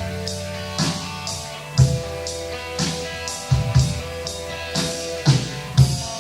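Live rock band playing a slow passage: electric guitar and sustained chords over a drum kit keeping a slow, steady beat, with kick and snare hits about once a second.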